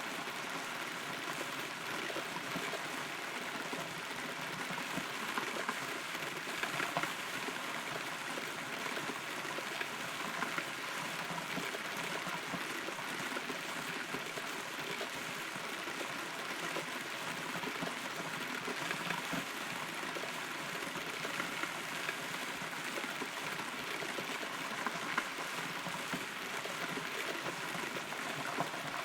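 Steady rain falling on and around a hollow rotten tree, with scattered individual drops tapping close by.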